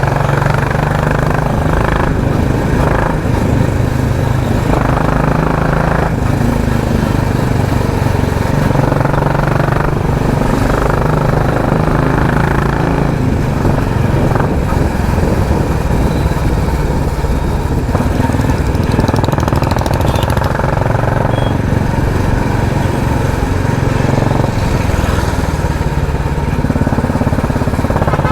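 Royal Enfield Classic 350's single-cylinder engine running through a loud aftermarket 'helicopter' exhaust while the bike is ridden. Its note shifts up and down every few seconds as the throttle and gears change.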